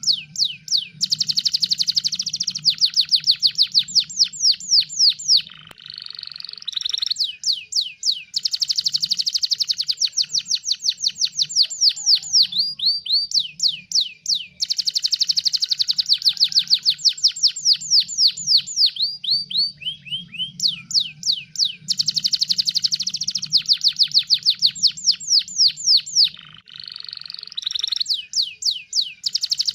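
Domestic canary singing: long, fast trills of repeated down-slurred whistled notes in phrases of several seconds, each broken by a short, differently pitched phrase before the next trill starts.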